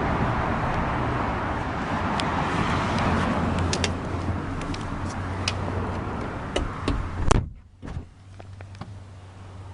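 A Lamborghini Gallardo Superleggera's door shutting with a single thump about seven seconds in, after light clicks and handling noise. After the shut the outside noise falls away to a quiet, muffled hum.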